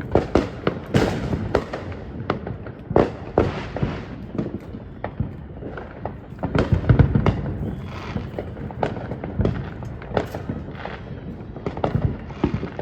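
Consumer fireworks going off: a rapid, irregular run of bangs and crackles, several a second, loudest and densest about seven seconds in.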